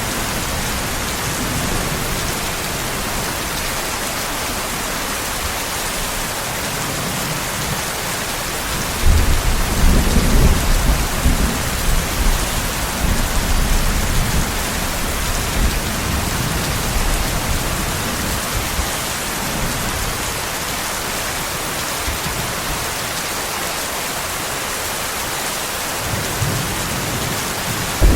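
Steady rain falling, with a roll of thunder that swells about nine seconds in and fades away over several seconds. Another rumble begins building near the end.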